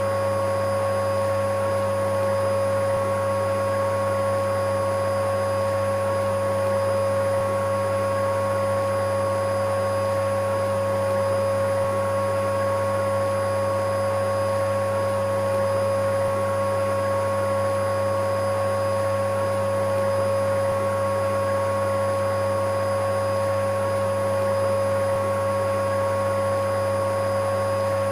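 Electric vacuum cleaner running steadily, its motor giving a constant whine over a low hum.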